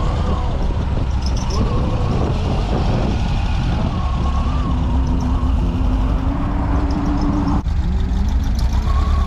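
A motor vehicle's engine running steadily with a low rumble, with faint voices in the background and a brief hum partway through.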